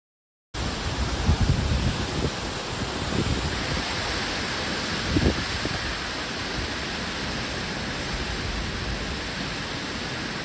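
Steady rushing of storm wind during Hurricane Ian, with low gusts buffeting the microphone. It starts abruptly about half a second in.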